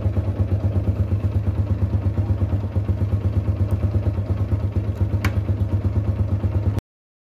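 Motorcycle engine idling with a steady, fast, even pulse. A single sharp click about five seconds in, and the sound cuts off suddenly near the end.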